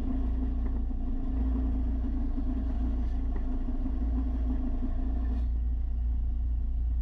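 Electric belt sander running steadily with a low hum; about five and a half seconds in its higher sound drops away suddenly, leaving only the low hum.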